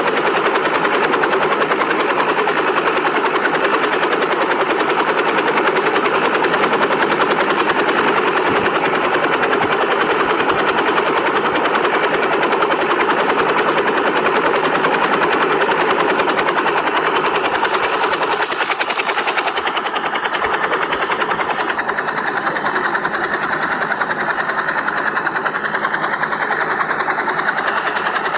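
Helicopter rotor and engine noise: a loud, steady, rapid chopping drone that changes tone slightly about two-thirds of the way through.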